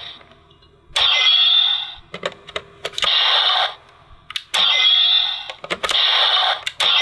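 DX Shotriser toy playing electronic sound effects through its small built-in speaker: four short, harsh bursts of about a second each, with sharp plastic clicks of its trigger and buttons in between.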